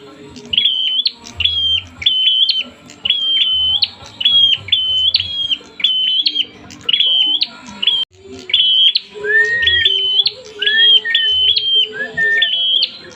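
Prinia (prenjak) singing agitatedly: a fast, relentless run of sharp chirping notes, about two a second. A few lower rising notes come in about two-thirds of the way through. It is the excited, aggressive song of a worked-up bird.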